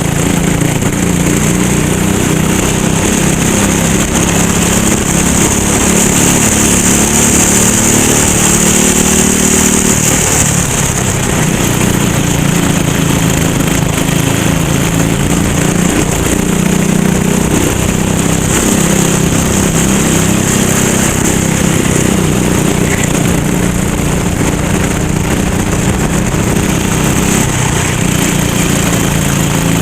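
Go-kart engine running hard under racing load, its pitch climbing as it accelerates and dropping sharply when the throttle is lifted, about ten seconds in and again later on, with a steady high hiss over it.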